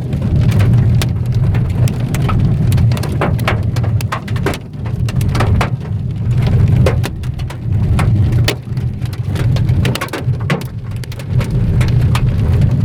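Hailstones drumming on the car's body and roof, heard from inside the cabin: a dense, irregular clatter of sharp knocks, some hitting much harder than others, over a steady low rumble. These are large stones, some nearly golf-ball size.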